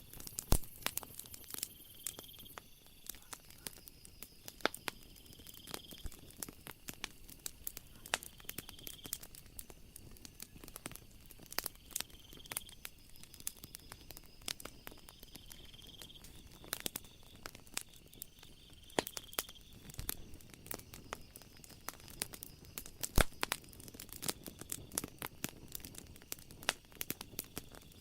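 Wood fire crackling, with a dense run of sharp pops and snaps, two of them louder: one just after the start and one about two-thirds through. A short high chirp, like a night insect, repeats about every two seconds through the first two-thirds, then stops.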